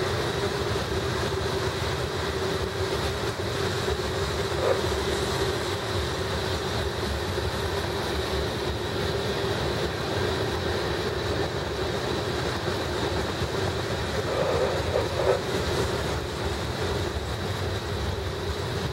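Mixed CSX freight train of covered hoppers, tank cars and boxcars rolling past: a steady, even rumble and clatter of steel wheels on the rails, with a faint steady tone running through it.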